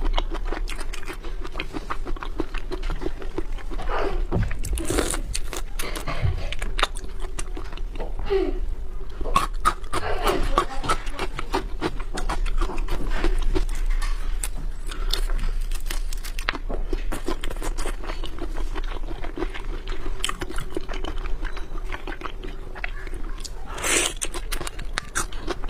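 Close-miked chewing of raw seafood: wet smacking, clicking and crunching of the mouth, dense and irregular, over a steady low hum.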